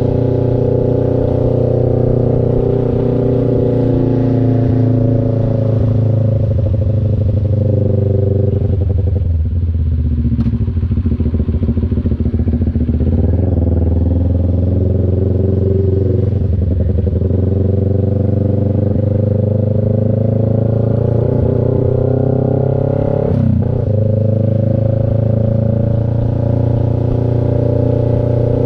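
CF Moto NK400 two-cylinder engine running under way, its note falling and rising with the throttle, with a sudden break in the note about four-fifths of the way through, like a quick gear change.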